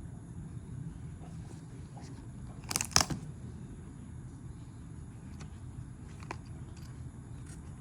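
Handling noises: a brief cluster of sharp clicks and knocks about three seconds in, then a few lighter clicks, over a steady low hum.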